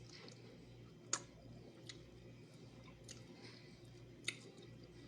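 Faint eating sounds: quiet chewing and mouth noises while picking a fish down to the bones, with two sharp clicks, one about a second in and one near the end.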